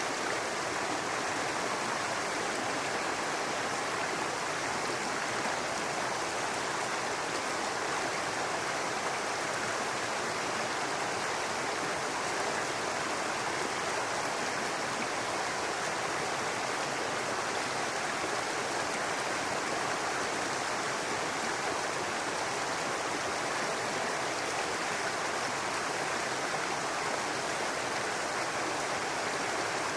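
A babbling brook: water running steadily over rocks, an even rushing and splashing with no change.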